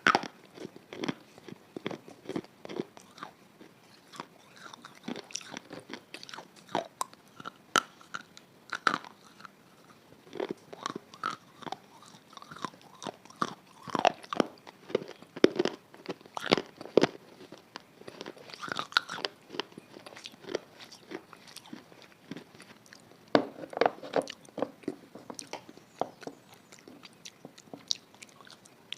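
A person biting and chewing something crunchy: a steady run of irregular, sharp crunches.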